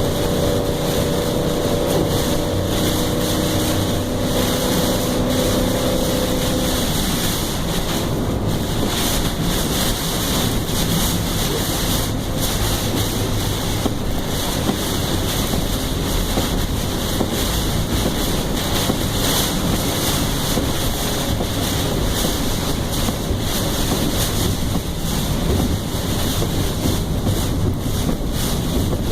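Tropical-storm wind buffeting the microphone in a loud, steady rush. A faint pitched hum sits under it for the first seven seconds or so, then stops.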